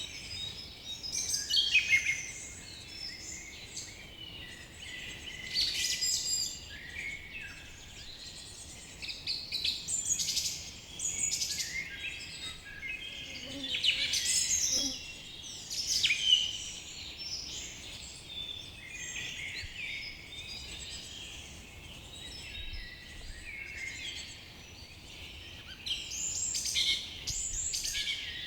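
A chorus of several songbirds chirping and trilling over one another, with louder phrases every few seconds, over a faint steady hum of insects.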